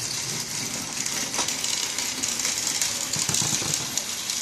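Small battery-powered toy train running on its plastic track: a steady whirring, rattling motor noise with a few light clicks.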